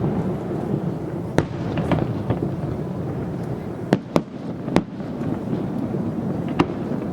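Fireworks display: aerial shells bursting with about five sharp bangs, two of them in quick succession around the middle, over a continuous low rumble and crackle of other bursts.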